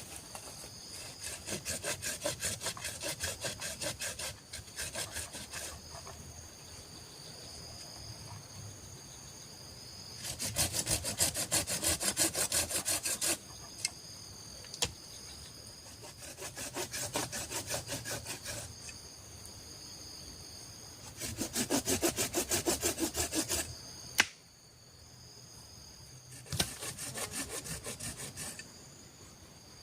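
Wood being sawn by hand in quick, even strokes, in five bouts of two to three seconds with short pauses between.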